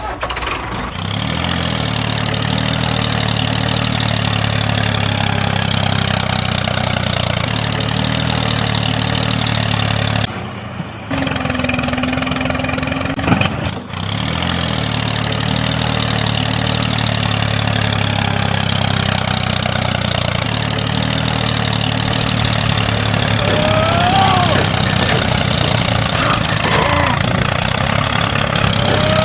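The motor of a homemade mini tractor running steadily, cutting out about ten seconds in and starting again about three seconds later.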